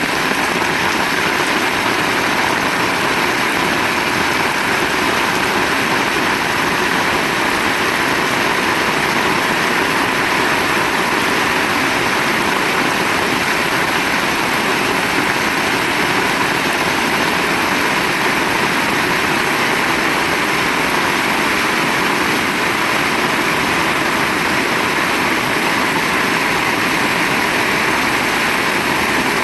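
Heavy rain pouring steadily, an even dense hiss of water with no breaks.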